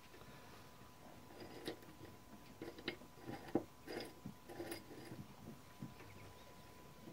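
Small clicks, taps and light scraping of metal and glass parts being handled as original glass keytops and their rings are fitted onto the key levers of a 1912 Mercedes No. 3 typewriter. The clicks are sparse at first and grow busier and sharper about three to five seconds in.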